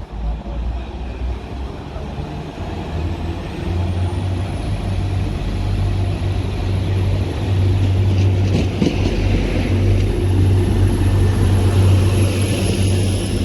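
Diesel multiple unit's engine running with a low rumble that grows louder, along with a thin high whine that rises and then holds steady. A short run of clicks comes about nine seconds in.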